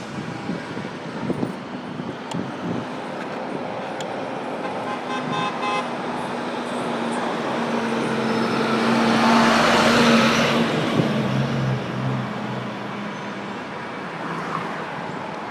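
Street traffic heard from a moving bicycle's handlebar-mounted phone: a brief horn toot about five seconds in, then a motor vehicle passing close, its engine hum and road noise rising to a peak about ten seconds in and fading.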